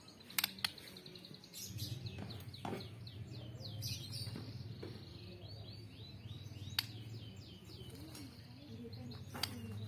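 Songbirds chirping in fast runs of short high notes, with a few sharp clicks and a low steady hum that comes in about two seconds in.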